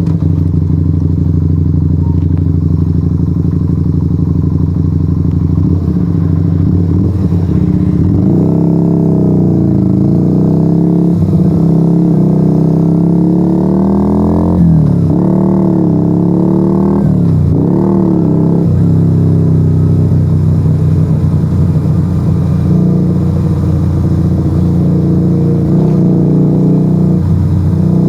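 Yamaha XV125 Virago's air-cooled 125 cc V-twin running through a straight-pipe exhaust with no dB killers, heard from onboard while riding. It holds steady at first, then the revs rise and fall several times with quick drops through the middle, as in throttle changes and gear shifts, and it settles back to steady cruising near the end.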